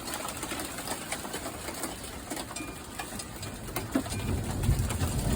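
Scattered raindrops and drips tapping, with a low rumble of thunder that swells about four seconds in.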